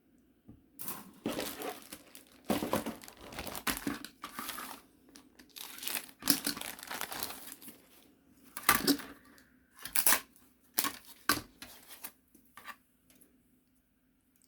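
Model kit packaging being handled, crinkling and rustling in irregular bursts that start about a second in and die away near the end.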